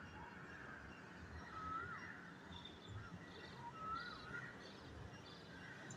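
Birds calling faintly: a repeated call that rises then falls, every second or so, with short higher chirps in between.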